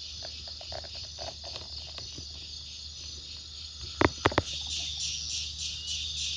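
Crickets and other insects chirring in a steady chorus that takes on an even pulsing rhythm in the second half, over a low steady hum. About four seconds in come three quick sharp clicks.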